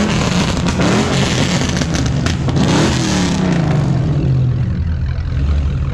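Car engine revving hard, its pitch rising and falling several times, with a few sharp cracks, then settling to a steadier lower note near the end.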